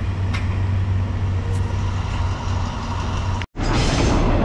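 Passenger train rolling past with a steady low engine hum. About three and a half seconds in, the sound cuts abruptly to the rumble of a second train passing close.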